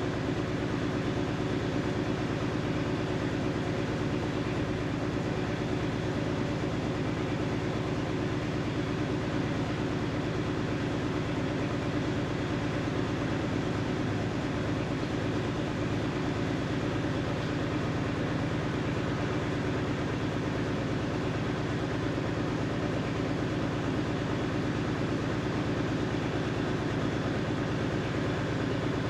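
A vehicle engine running steadily at an even pitch, with no change in speed.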